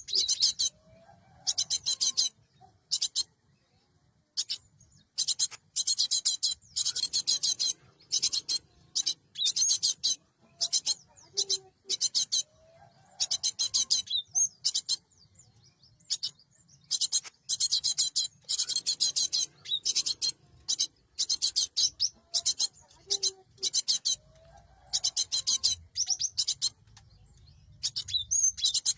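Cinereous tit (gelatik batu) giving repeated harsh, rasping chattering calls in high bursts from a fraction of a second to about a second long, with short pauses between them.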